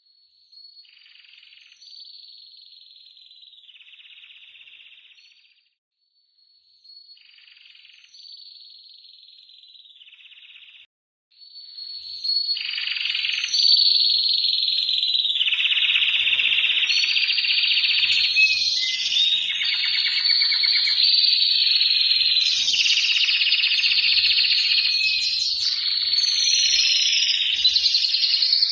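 Male canary in breeding condition singing: two quieter high phrases separated by short pauses, then from about eleven seconds in a loud, continuous song of changing phrases and rapid repeated notes.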